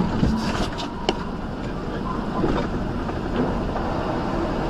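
Steady road and engine noise of a moving vehicle, with a few sharp clicks and knocks over it.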